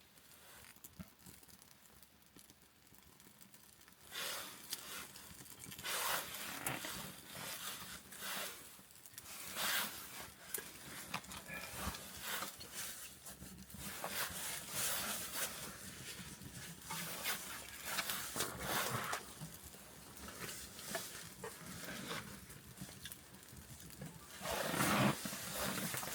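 Birch-bark kindling catching in a freshly lit log fire, crackling and flaring with a rushing hiss from about four seconds in.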